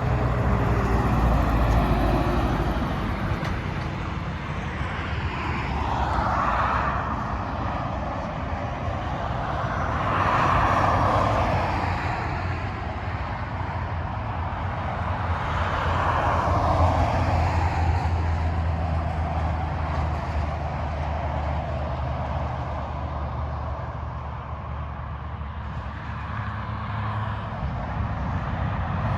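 Freeway traffic passing at highway speed: a run of vehicles, trucks among them, each swelling in with tyre roar and engine drone and fading away, over a steady low hum of engines.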